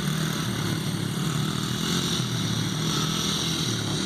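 Dirt bike engines running steadily in a low gear, their drone wavering slightly in pitch.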